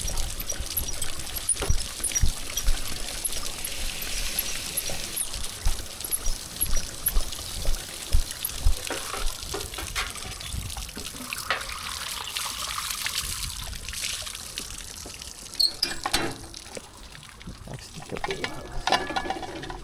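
Running water splashing and trickling, with scattered low thumps and knocks.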